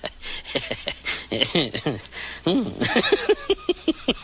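Voices in short, broken utterances, rising and falling in pitch, with clicks and knocks between them.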